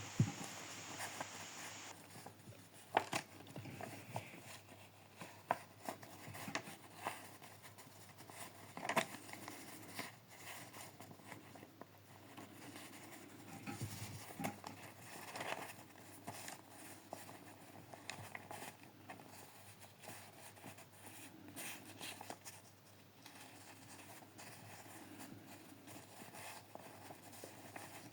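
Faint, scattered rustles and clicks of a paper banknote being handled, with a few sharper crackles about 3 and 9 seconds in.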